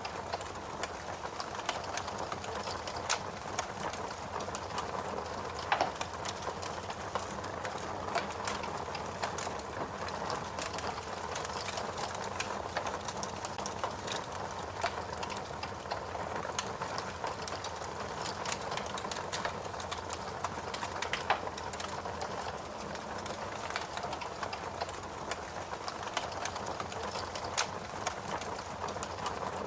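Wood fire burning with a steady hiss and irregular sharp pops and crackles, a few louder snaps standing out, one about six seconds in and one about two-thirds of the way through.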